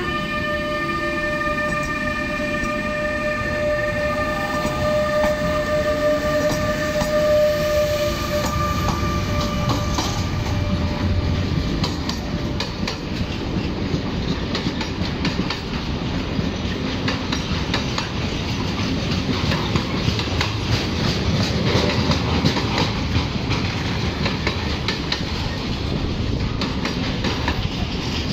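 Freight train hauled by two Renfe class 253 (Bombardier Traxx) electric locomotives rolling past. A steady whine from the locomotives fades out within the first ten seconds or so, leaving the rumble and clickety-clack of the container wagons going by.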